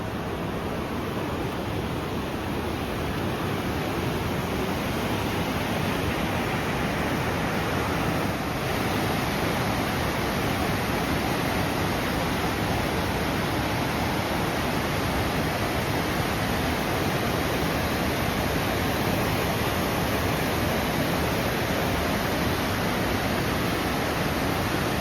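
A river rushing over its stony bed: a steady, even rush of flowing water, a little louder from about eight seconds in.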